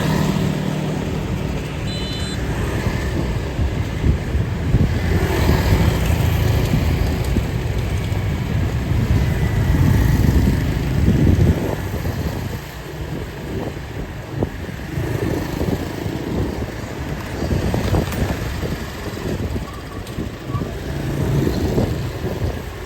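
Street traffic: motor vehicles passing close by with their engines running, a low rumble that is loudest for several seconds in the middle.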